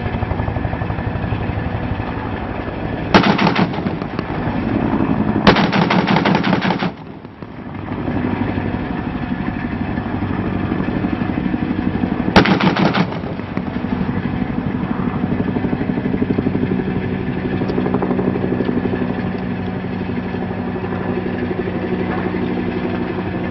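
Three bursts of automatic gunfire over the steady running of a vehicle engine: a short burst about three seconds in, a longer one of about a second and a half at around five and a half seconds, and another short burst about twelve seconds in.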